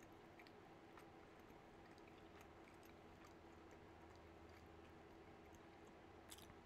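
Near silence: a person quietly chewing a mouthful of burger with the mouth closed, with soft mouth clicks scattered through and a sharper click near the end, over a faint steady hum.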